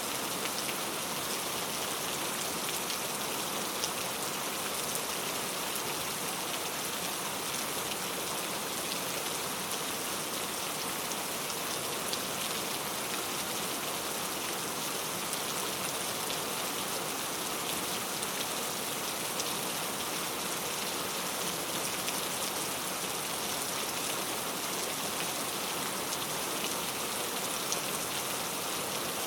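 Steady rain falling, an even hiss of many small drop impacts pattering on a surface.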